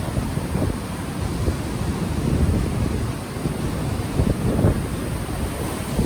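Gentle ocean waves washing on the shore, overlaid by wind buffeting a microphone that has no windscreen, heard as irregular low rumbling gusts.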